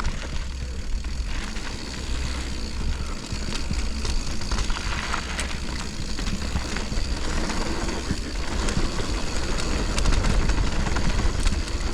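Mountain bike descending a dirt flow trail: wind rushing over the microphone with a low rumble, tyres rolling on dirt, and small clicks and rattles from the bike.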